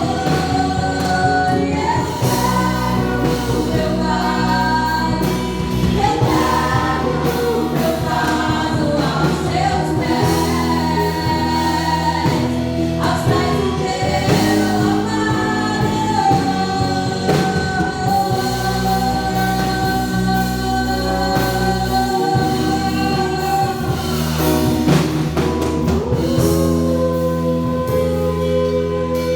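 Portuguese-language gospel worship song: a group of voices singing over a band with sustained bass, keyboard chords and light drums.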